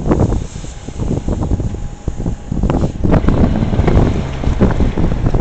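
Gusty wind buffeting the microphone in a winter storm: a loud, uneven low rumble that swells and dips.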